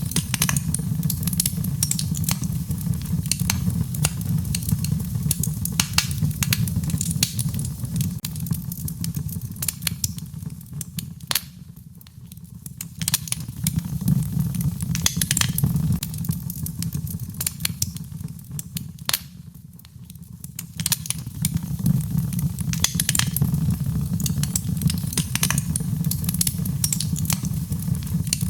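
Fire in a fireplace crackling: a steady low rumble under a dense run of sharp pops and snaps. It dies down briefly twice, about twelve and twenty seconds in.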